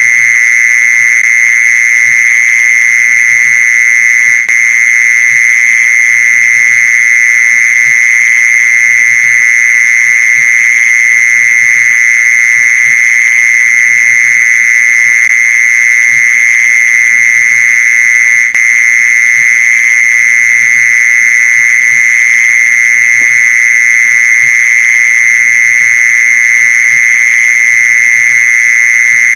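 Mole cricket calling: one loud, unbroken high trill that holds the same pitch throughout. It is the song used as a lure to draw mole crickets in.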